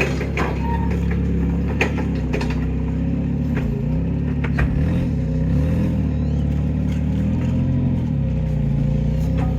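Heavy diesel engine running steadily, with a scattering of sharp metallic knocks and clanks over it.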